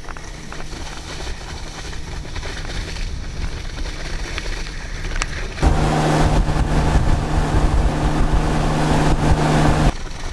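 Motorboat engine running steadily, suddenly much louder with a steady pitched hum about halfway through, then cutting back abruptly near the end.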